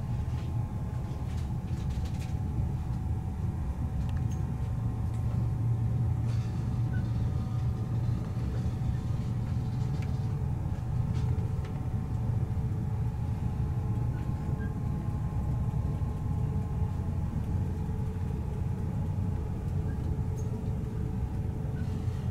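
Cabin noise of a EuroCity passenger train running at speed: a steady low rumble from the wheels and running gear, with a faint steady whine above it and a few light clicks.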